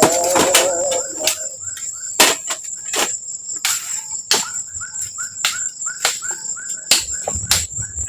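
Forest insects trilling steadily on one high note, with irregular sharp knocks. A run of short rising chirps, about three a second, comes in the middle.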